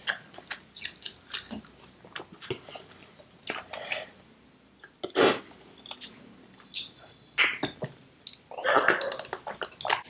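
Close-miked chewing of a handful of rice pulao with chickpea curry: wet mouth clicks and smacks, with one much louder sharp sound about five seconds in and a denser rustling stretch near the end.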